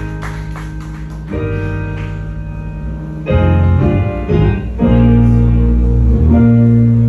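Piano-toned keyboard playing slow, sustained chords as a song's opening, growing louder about three seconds in.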